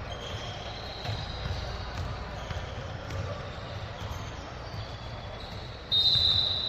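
Basketball game in a gym: ball bouncing on the court, high squeaks and voices, then about six seconds in a sudden loud, shrill whistle blast from the referee.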